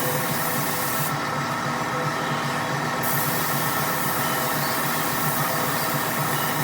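Paint spray gun hissing as it lays down urethane clear coat, over a steady machine hum. The highest part of the hiss drops out for about two seconds, about a second in.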